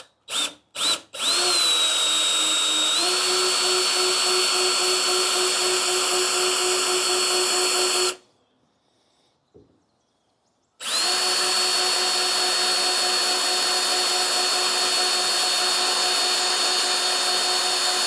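Cordless drill with a small bit drilling a stop hole at the end of a crack in a rotomolded plastic kayak hull. A few short trigger blips open it, then two steady runs of about seven seconds each, with a pause between.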